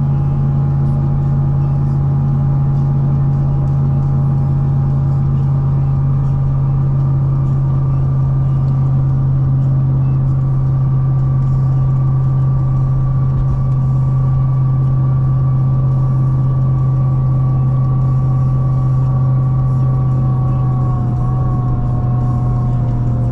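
Supercharged C6 Corvette ZR1's 6.2-litre V8, fitted with a Kong 2650 supercharger, cruising at steady highway speed. It is a steady low engine drone with a high supercharger whine over it, both dropping slightly in pitch near the end as the car eases off.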